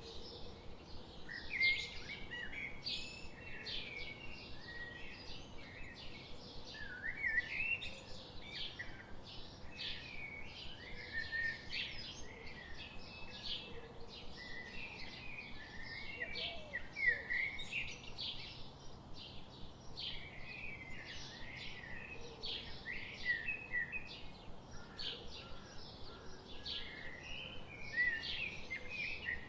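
Birds chirping and peeping without pause: many short, high calls overlapping, with a few louder ones standing out now and then.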